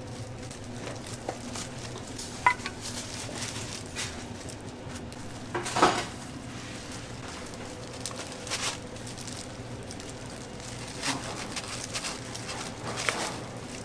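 Kitchen clatter: dishes and metal utensils clinking and knocking over a steady low hum, with a sharp ringing clink about two and a half seconds in and the loudest knock about six seconds in.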